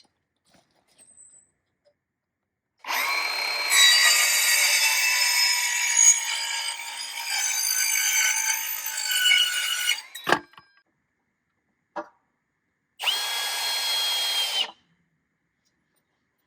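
Power drill spinning up and running under load for about seven seconds, its whine shifting in pitch, then a sharp click and a second short run of under two seconds.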